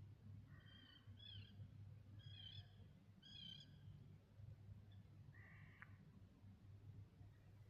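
Faint outdoor bird calls: several short calls in the first six seconds over a low steady hum.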